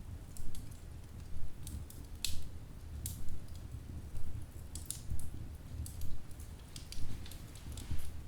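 Wood fire burning in a fireplace: sharp crackles and pops from the logs, one or two a second, over a low steady rumble of the flames.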